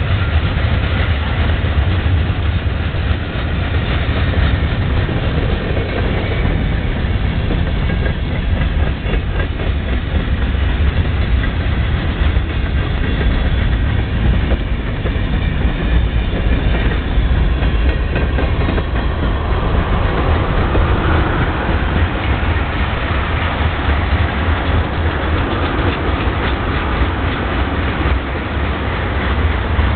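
Norfolk Southern freight train's cars rolling steadily past: a continuous heavy rumble with the wheels clicking rapidly over the rail joints.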